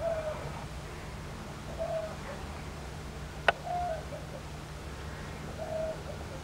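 A bird repeating a short, mid-pitched call note about every two seconds, over a steady low hum. A single sharp click comes about three and a half seconds in.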